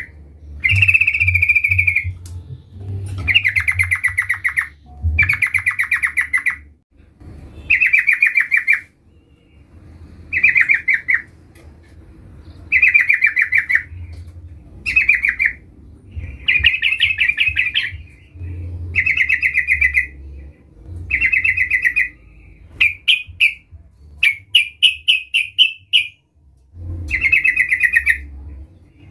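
Yellow-vented bulbul (trucukan) calling: rapid chattering phrases about a second long, repeated every couple of seconds. Near the end the phrases break into a quick string of short separate notes.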